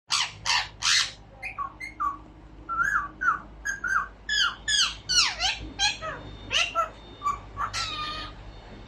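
Albino Indian ringneck parakeet calling: three loud harsh screeches, then a long run of short whistled chirps and gliding notes.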